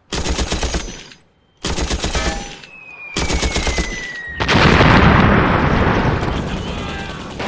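Machine gun firing in rapid bursts: three short bursts a little over a second apart, then a longer, louder stretch of fire that slowly fades. A thin falling whistle tone is heard just before the long burst.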